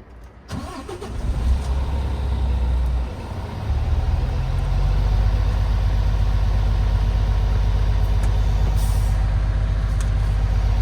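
A diesel engine starting about half a second in, then settling into a steady low idle that steps up a little around four seconds in.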